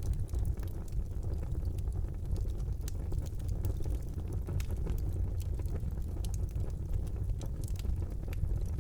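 Wood fire burning in a fireplace: a steady low rumble of the flames with frequent small, sharp crackles and pops scattered throughout.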